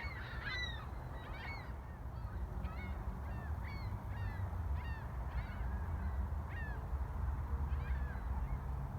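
A flock of waterbirds calling over and over, short hooked calls about two a second, over a steady low rumble.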